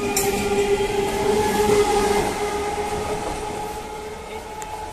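Electric multiple-unit local train running past close by, a steady tone held over the rumble of the coaches. The sound is loudest in the first couple of seconds and fades as the last coaches clear.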